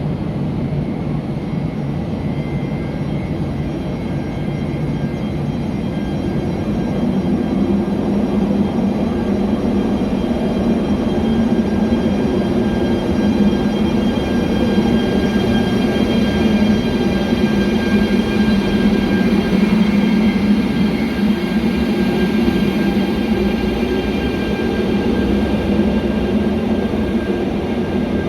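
Electric train running on the track: a steady rumble with thin high whining tones over it, growing a little louder toward the middle.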